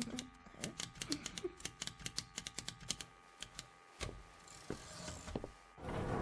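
Rapid, irregular mechanical clicking and ticking like ratchets and gears, dense at first and thinning out after about three seconds, with a single low knock about four seconds in and a rising swell of sound near the end.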